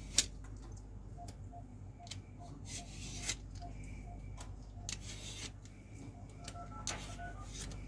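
Papaya being peeled by hand: scattered scraping strokes and light clicks of a blade on the fruit's skin.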